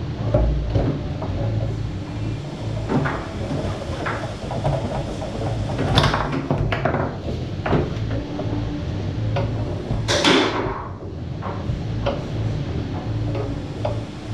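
Foosball played on a Tornado table: the ball being knocked and passed by the rod figures, with irregular sharp clacks and knocks against the men and the table walls. The loudest crack comes about ten seconds in, over a steady low hum.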